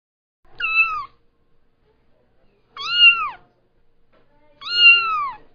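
Kitten meowing three times, each meow rising then falling in pitch, the last one the longest.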